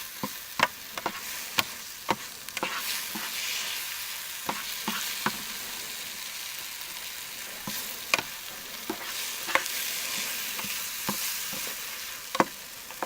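Omelette eggs sizzling in an oiled 8-inch electric skillet: a steady frying hiss with scattered crackles and pops.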